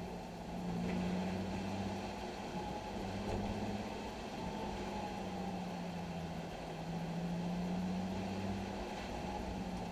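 Nissan 370Z's 3.7-litre V6 engine running at steady, fairly low revs, its drone wavering slightly in pitch.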